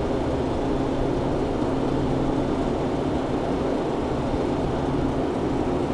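Steady machinery drone with low, constant hum tones, with no separate knocks or clicks.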